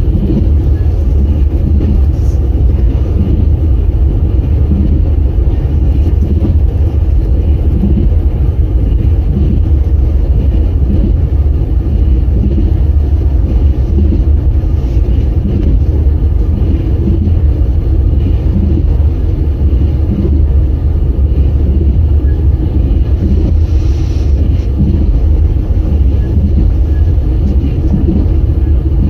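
Passenger train running at speed, heard from inside a carriage: a steady low rumble with the wheels knocking over the rails in a loose repeating pattern.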